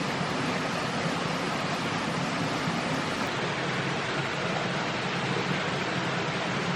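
Steady, even rushing noise with no distinct events, of the water-like kind.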